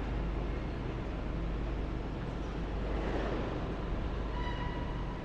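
Diesel plant machinery running steadily, a low rumble, with a brief high whine near the end.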